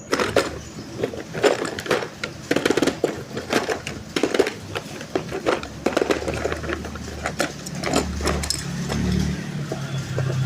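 Hard plastic toy parts being handled, a run of irregular clicks and knocks. A low hum from a small toy motor builds under them in the second half.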